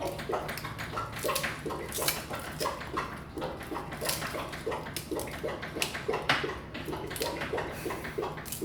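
Whole unpeeled garlic cloves being broken apart by hand and dropped into a roasting pan: irregular small clicks, taps and papery crackling.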